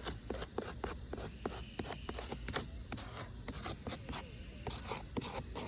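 Irregular gritty scraping and crackling of weathered asphalt 3-tab shingles being worked, with many small clicks a second.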